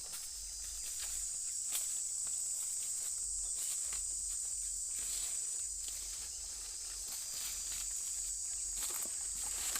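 Steady, high-pitched insect chorus of crickets or cicadas droning without a break, with a few faint clicks or steps scattered through it.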